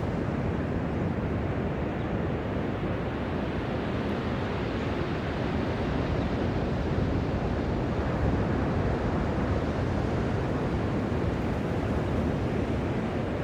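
Ocean surf washing steadily, with wind noise on the microphone; the sound is an even, unbroken rush with no single wave crash standing out.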